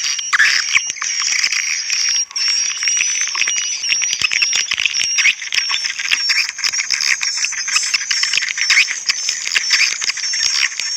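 Swiftlet lure recording playing back: a mixed call track and roosting track of edible-nest swiftlet twittering, a fast string of short high chirps over dense chattering, running continuously.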